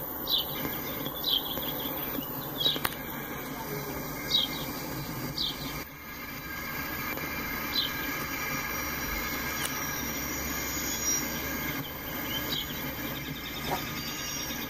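Freight cars rolling through a grade crossing: a steady low rumble of wheels on rail, with short high squeaks every second or two.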